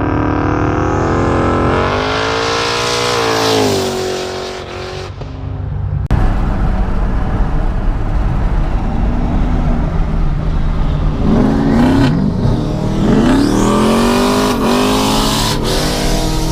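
Ford Mustang GT's 5.0 Coyote V8 accelerating hard: the engine note climbs for a few seconds and falls away around four seconds in, then comes back loud at about six seconds and climbs and drops several more times.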